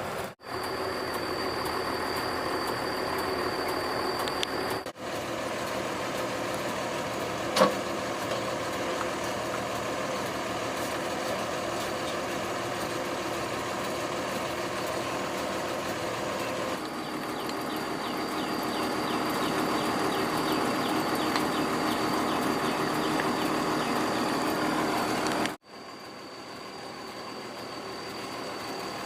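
Excavator's diesel engine running steadily under work, with a thin high whine in some stretches and one sharp knock about eight seconds in. The sound cuts out abruptly for a moment three times, as the footage jumps between shots.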